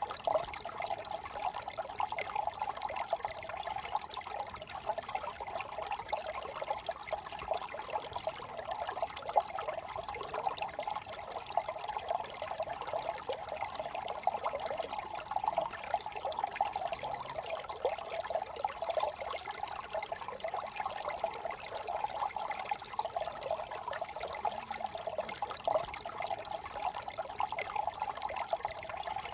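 Small brook trickling steadily: a continuous, bubbling babble of running water.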